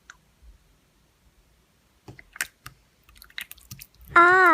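Slime being squished and pressed by hand, giving a few scattered wet clicks and crackles from about two seconds in.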